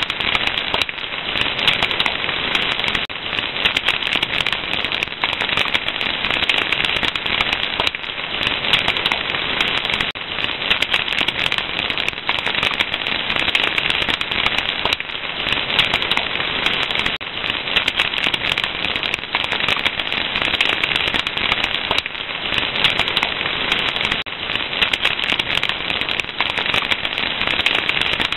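Wood fire crackling steadily, a dense stream of small pops and snaps.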